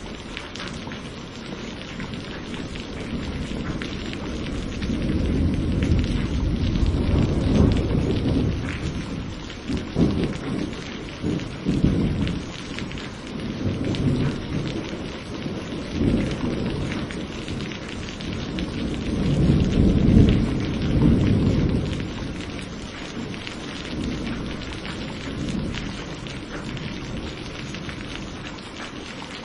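Steady rain with rolling thunder: low rumbles swell from a few seconds in, peak twice, around a quarter of the way through and again past the middle, then die away under the rain.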